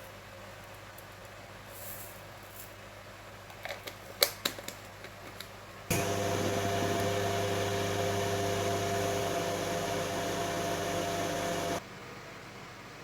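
A few sharp clicks, then a microwave oven runs with a steady hum for about six seconds and stops suddenly.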